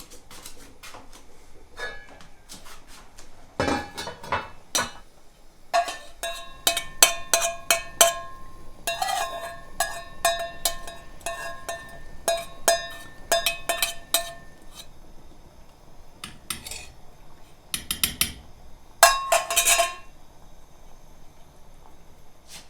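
Dishes and utensils clinking and clattering, a run of quick knocks about six seconds in, several of them ringing briefly, with another louder clatter near the end.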